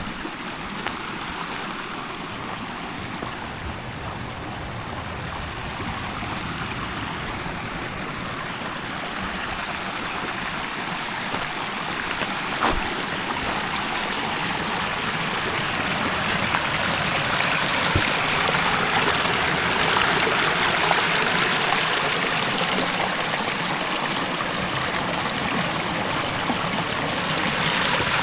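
Steady rushing water, like a stream, growing gradually louder.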